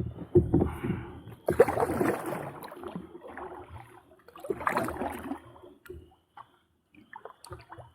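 Kayak paddle strokes in the water: splashing and sloshing in three bursts a few seconds apart, with a few light knocks near the end.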